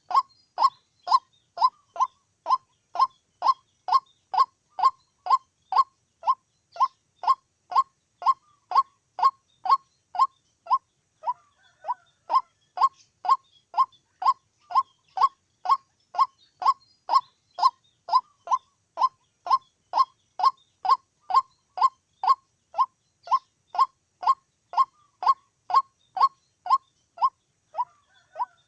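White-breasted waterhen calling in a steady run of short, identical calls, about two a second, with one brief pause near the middle.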